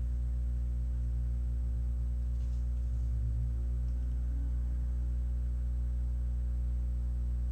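Steady low electrical hum with a stack of even overtones, unchanging throughout.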